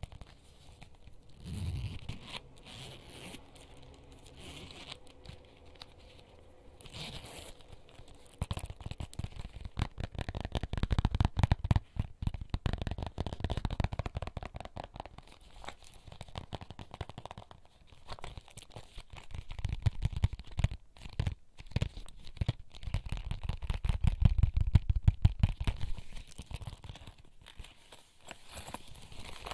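Close-miked ASMR finger tapping and scratching on small items from a bag, a rapid patter of clicks with crinkling and low handling thumps, swelling louder twice.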